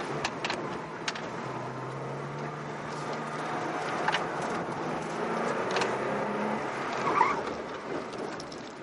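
Porsche engine heard from inside the cabin during an autocross run, its pitch rising and falling as the car accelerates and brakes between cones. Several sharp knocks are heard, and a brief squeal about seven seconds in is the loudest moment.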